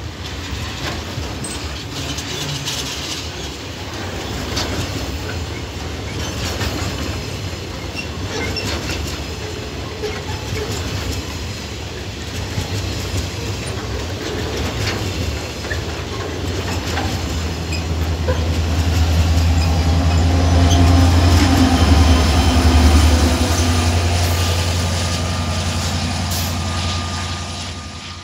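Freight train's pulp boxcars rolling past close by: steel wheels clacking and clattering over the rail joints, with a steady rolling rush. In the second half a low drone swells, is loudest a few seconds later, then eases before the sound drops off at the end.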